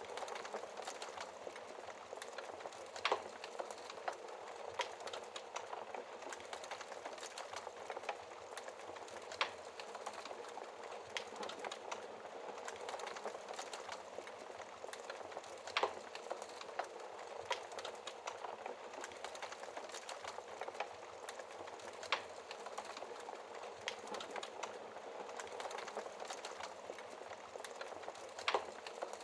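Wood fire burning in a fireplace: a steady hiss with frequent small crackles and now and then a louder sharp pop.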